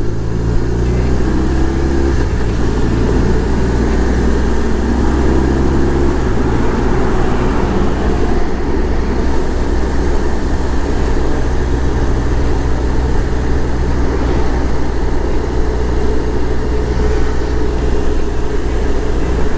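BMW R1200 motorcycle's flat-twin engine running while riding, over steady wind and road noise; the engine note shifts about two seconds in and again about six seconds in.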